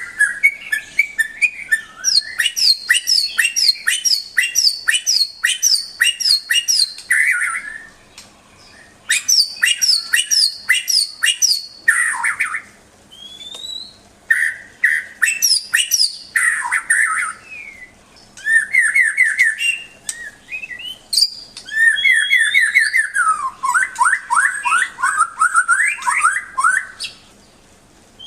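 White-rumped shama (murai batu) singing: loud, varied phrases of rapid repeated sharp notes, trills and rising whistles, broken by several short pauses.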